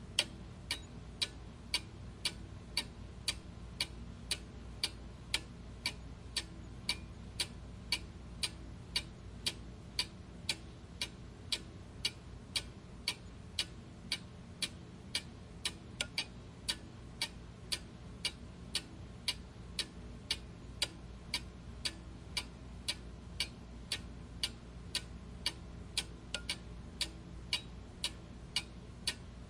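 Clock ticking steadily, about two even ticks a second, over a faint low background hum.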